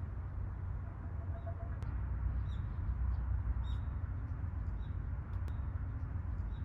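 A few short, faint bird chirps scattered over a steady low rumble.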